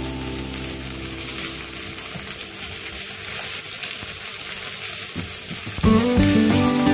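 Sliced onion, garlic and ginger sizzling in hot oil in a wok while being stirred with a wooden spatula. Background music fades out at the start and comes back in about six seconds in.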